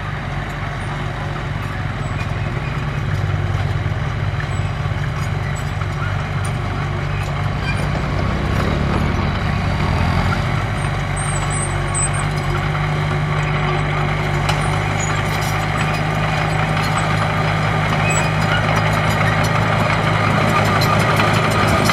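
Komatsu D21P bulldozer's diesel engine running steadily, with mechanical clatter over it, growing slowly louder.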